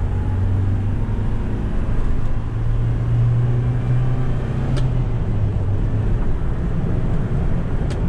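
1988 Toyota Hiace's 1.8-litre petrol four-cylinder engine pulling under way with road noise. The engine note rises a few seconds in, holds, then drops back near the end, with a couple of brief clicks along the way.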